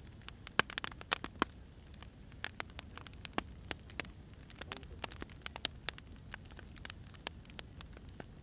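Firewood burning, crackling: irregular sharp pops and snaps over a low, steady rumble.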